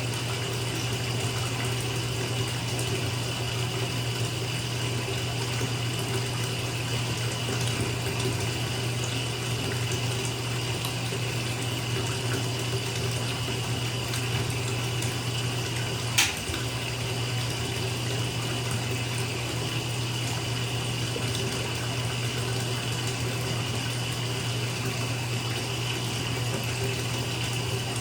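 Bathtub filling from a running tap: a steady rush of water pouring into the tub, with one sharp click about halfway through.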